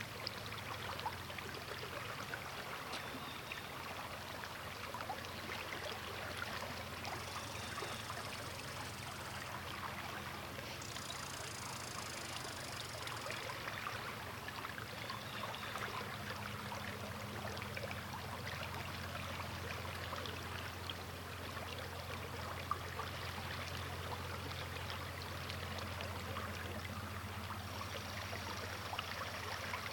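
Sturgeon River water flowing steadily, a continuous rush and trickle.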